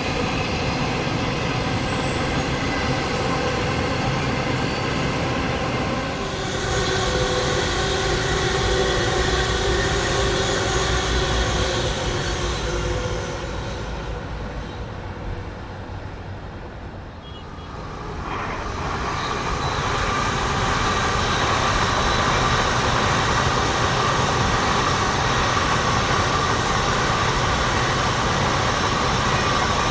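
Trains running past on the Guangzhou–Shenzhen railway: steady rail running noise with a high whine. It fades away about halfway through, then a second train comes up and passes steadily to the end.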